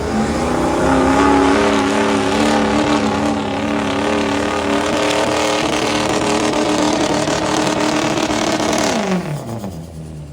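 Competition pulling vehicle's engine revving hard at high, steady revs, then the revs fall away sharply about nine seconds in as the throttle comes off.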